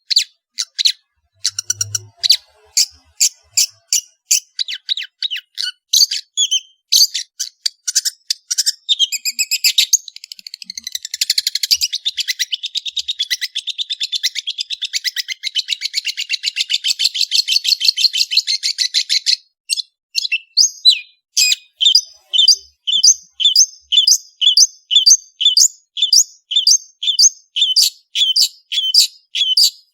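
Long-tailed shrike singing a fast, high song of rapid notes. About ten seconds in it turns to a long dense trill that lasts until about nineteen seconds, then it settles into a string of sharp repeated notes, about two a second.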